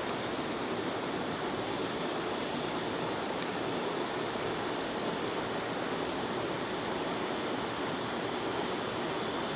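River water rushing steadily over rocks, with one faint click about three seconds in.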